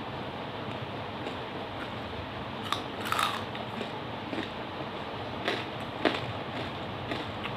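A person biting and chewing wet lumps of charcoal (koyla), with a few sharp crunches a few seconds in, over a steady hiss.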